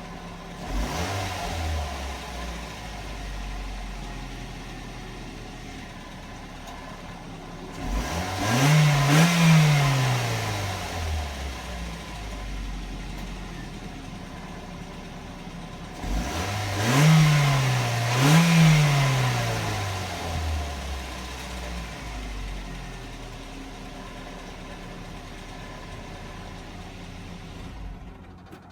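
A stock 2005 Ford Focus four-cylinder engine idling through its factory exhaust, revved twice in a row about eight seconds in, falling back to idle, then revved twice again about halfway through before settling back to a steady idle.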